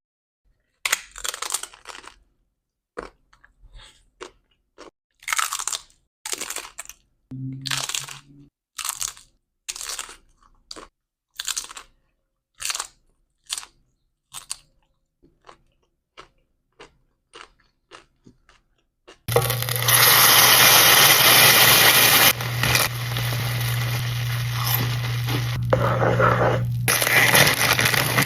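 Close-up crunching of nacho tortilla chips being bitten and chewed, a crunch about every second. About two-thirds of the way in, a loud steady hiss with a low hum takes over.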